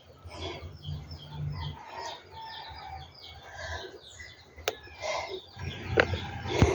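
Birds calling in quick, repeated short chirps over a low rumble, with a few sharp knocks near the end.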